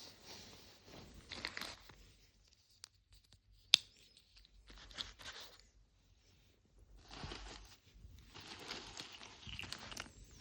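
Small plastic items and packaging handled in several short bursts of rustling and crinkling, with one sharp click about a third of the way through.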